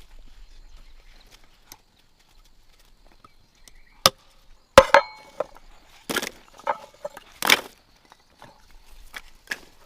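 A series of sharp knocks or chops. The loudest pair, about five seconds in, rings briefly afterwards; rougher, scraping strikes follow over the next few seconds.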